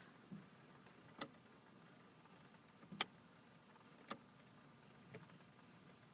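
Near silence with a few sharp, very short clicks, three of them clear: one about a second in, one about three seconds in and one about four seconds in.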